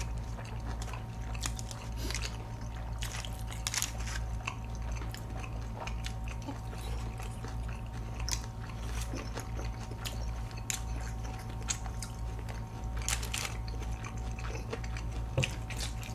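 Close-miked chewing and biting of food: irregular wet clicks and small crunches of mouths at work, over a steady low electrical hum.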